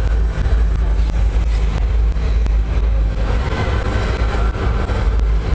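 Show car's engine running loud with a heavy, steady low rumble while it shoots flames.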